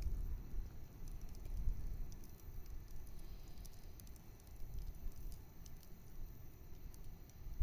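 Wood campfire crackling, with scattered sharp pops and snaps over a low, uneven rumble.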